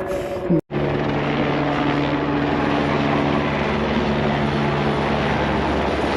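Steady drone of a helicopter's engine and rotor, holding an even pitch, after a brief dropout in the sound just over half a second in.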